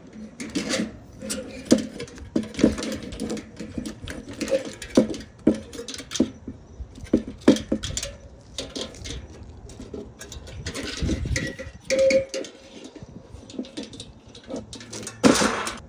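Defrost heater being pulled up and off a refrigerator evaporator coil by hand: irregular clicks, scrapes and light rattles of metal parts being handled.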